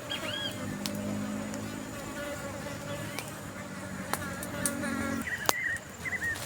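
A fly buzzing close by, a steady drone that cuts off about five seconds in, with short bird chirps at the start and near the end and a few sharp clicks.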